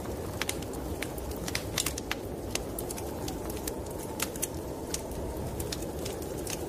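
Wood fire in a fireplace crackling, with frequent irregular sharp pops, over a steady low rush of snowstorm wind.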